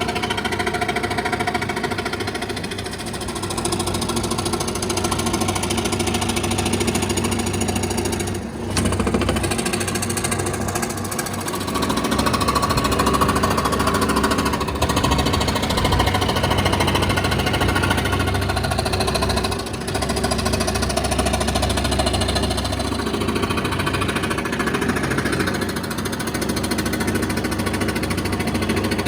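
An electric woodworking power tool running continuously as it works wood, a steady mechanical drone with a couple of brief dips.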